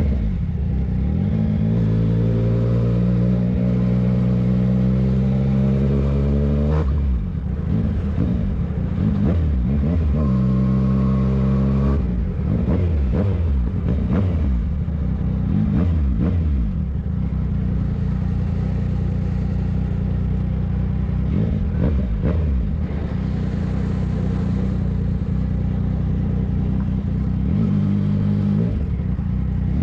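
Yamaha MT-09's three-cylinder engine under way: it pulls up through the revs for several seconds, drops back, pulls again, then runs fairly steadily before starting to climb again near the end.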